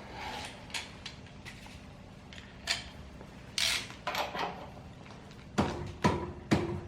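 Metal hand tools and bolts clinking and knocking as a spanner works the motorcycle's front brake caliper bolts. Scattered light clicks and a scrape give way near the end to a few sharper metallic knocks, some of them ringing briefly.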